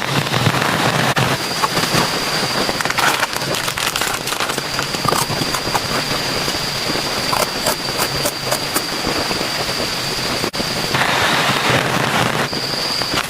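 Heavy rain falling steadily, with sharp crackles and pops scattered through it from a burning wood campfire. A thin steady high tone runs above it and drops out for a second or so near the end.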